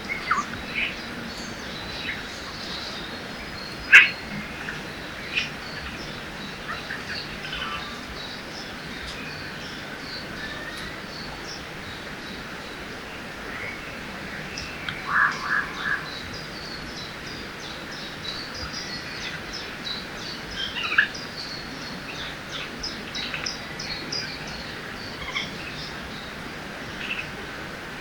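Forest birds chirping and calling over the steady rush of a river. Many short high chirps run throughout, with a sharp loud call about four seconds in, a quick run of three lower notes just past the middle, and another sharp call a few seconds later.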